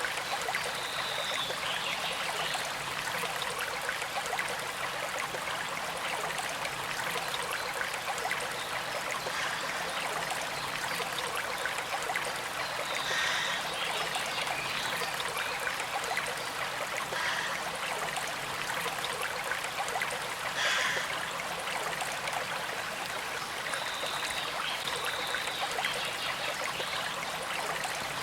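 A small creek flowing steadily, with a gentle trickle over the constant rush of water. A few brief higher sounds stand out now and then.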